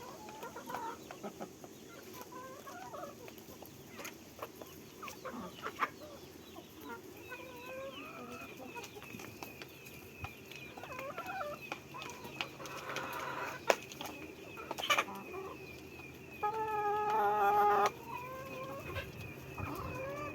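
Chickens clucking softly while they feed, with scattered pecking clicks. About three quarters of the way through, one bird gives a loud, drawn-out call lasting about a second and a half.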